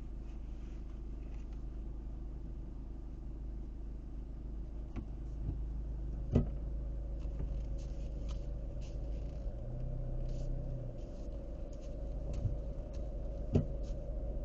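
A car driving, heard from the dashcam: a steady low road and engine rumble. A steady tone joins about halfway through, and there are two sharp knocks, one about six seconds in and one near the end.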